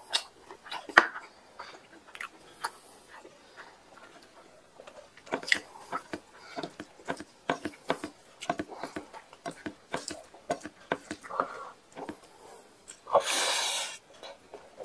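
Close-miked mouth sounds of a man eating rice and chicken curry by hand: wet chewing, lip smacks and irregular clicks, with a louder rush of noise lasting about a second near the end.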